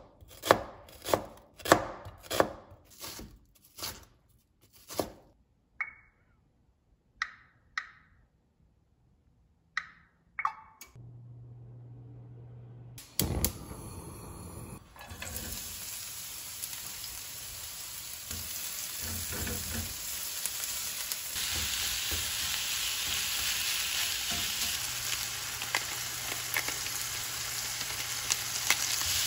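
A knife chopping through an onion on a plastic cutting board, about eight quick strokes, followed by a few scattered knocks and a sharp click. From about fifteen seconds in, ground pork and onion sizzle steadily as they fry in a nonstick pan on a gas burner while being stirred.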